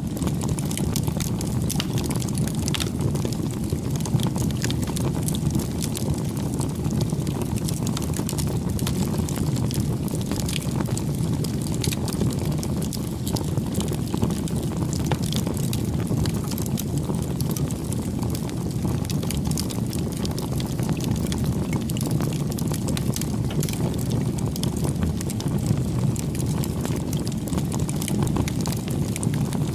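Wood campfire burning: a steady low rush of flame with many small crackles and pops all through.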